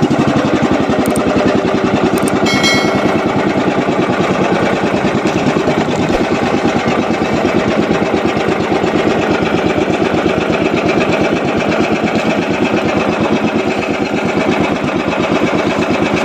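Small boat engine running steadily, with a rapid, even firing rhythm.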